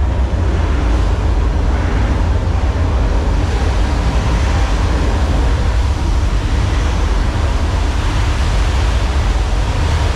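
Loud, steady rumble with rushing noise, typical of the simulated earthquake and flood effects on a theme-park ride.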